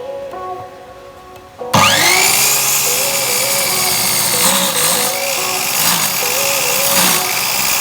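Electric woodworking saw motor switched on about two seconds in, its whine rising quickly to speed and then running loud and steady, dipping briefly a few times. Background music plays throughout.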